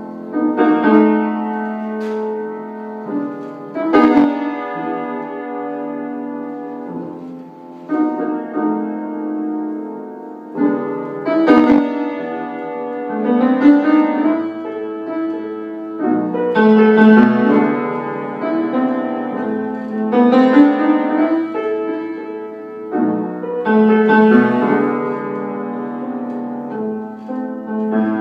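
Solo piano playing a slow, chord-based jazzy blues tune, each chord struck and left to ring.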